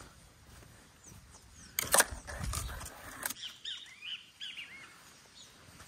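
Birds chirping in short, quick, curving notes, against a couple of sharp knocks or rustles, the loudest about two seconds in.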